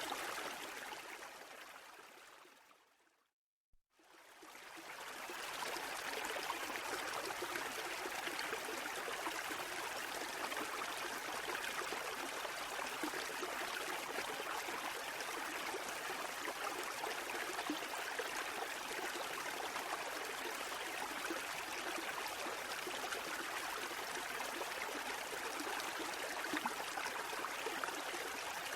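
Steady running water with a fine trickling hiss. It fades out to silence a few seconds in, fades back in about two seconds later, then runs on at an even level without surges.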